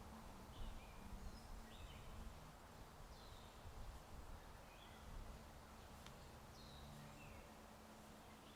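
Faint birdsong: short high chirps and falling whistled notes, several every second, over a steady low hiss of wind. An occasional single faint click.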